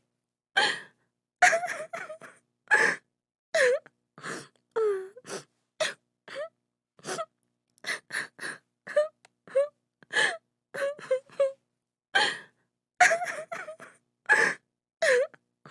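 A woman sobbing and wailing, in short gasping breaths and broken cries, some of them bending down in pitch, coming a few times a second with brief gaps between.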